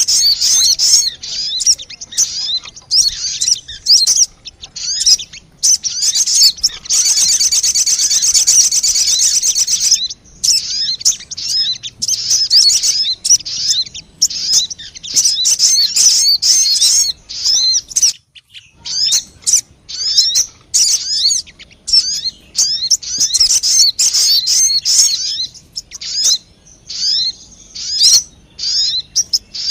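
Bird lure call of the sogon bird: rapid series of high, quick chirps, with a continuous buzzy trill running for about three seconds roughly a quarter of the way in and a brief pause just past the middle.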